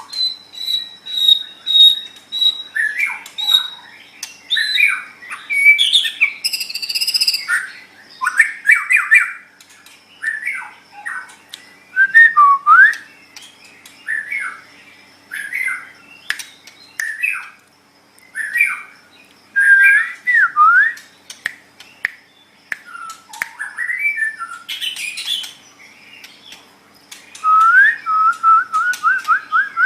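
White-rumped shama (murai batu) singing a long, varied song of clear whistles, quick chattering phrases and trills. It opens with a held high whistle and ends in a fast run of repeated notes.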